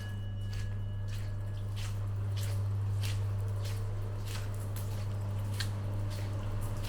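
Footsteps on wet paving at a steady walking pace, about two wet taps a second, over a steady low hum.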